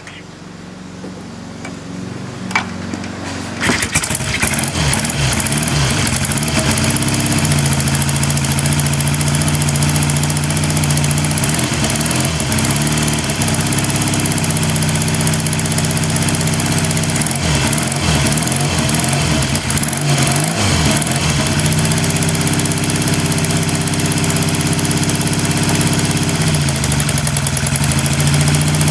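Triumph T100C parallel-twin motorcycle engine cold-started without choke, its carburettor only tickled. It catches a few seconds in after a sharp kick or knock, then settles into a steady idle whose pitch wavers and sags briefly near the end before picking up again.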